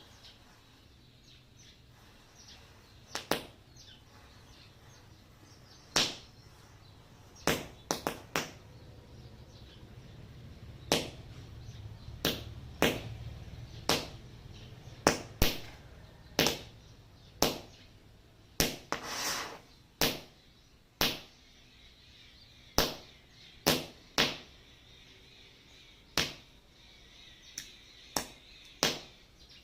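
A matchstick chain reaction with small firecrackers going off: irregular sharp pops, each with a short fizzing tail, about twenty in all, with a longer hiss a little past halfway.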